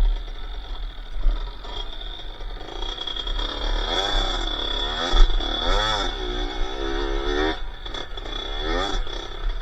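Two-stroke KX80 engine of an XLR80R off-road motorcycle running on the trail. From about four seconds in its pitch rises and falls again and again as the throttle is worked.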